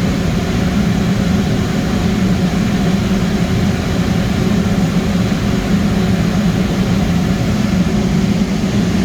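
Gas-fired steam boiler burners and their combustion blowers running at high fire: a loud, steady machine noise with a constant low hum.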